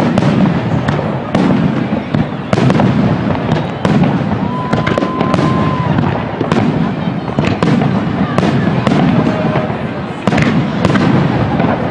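Aerial fireworks display: a dense, continuous run of booming shell bursts and sharp cracks, one after another with barely a gap. A brief steady whistle sounds about four seconds in.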